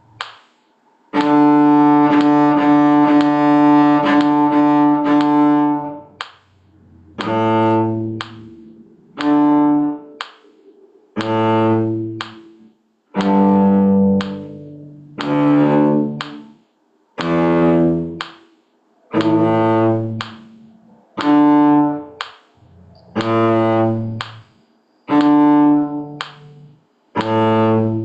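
Cello bowing a long opening note, then a line of separate notes, about one every two seconds with short breaks between them.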